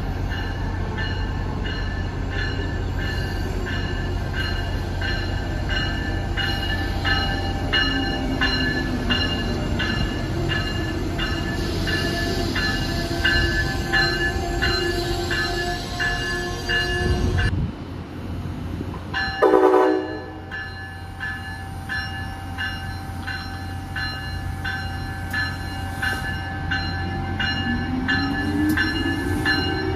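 Train idling at a station platform with its bell ringing steadily in even repeated strikes. A short, loud horn blast comes about two-thirds of the way through, and a rising tone near the end as it starts to move off.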